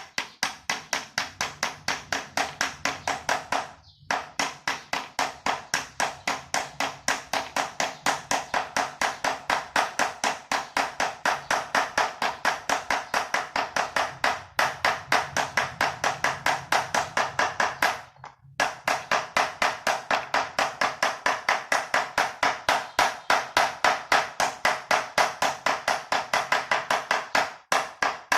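Rapid, steady tapping blows on the washing machine's pulsator, about three to four strikes a second, with a few short breaks, as it is worked loose without heat.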